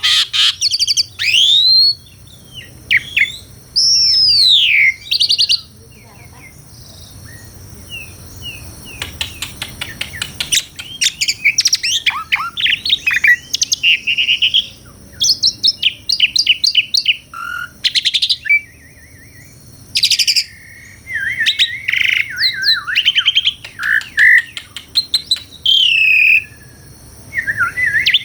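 Asian pied starling singing a loud, varied song of gliding whistles, rapid chirps and trills, in phrases broken by short pauses.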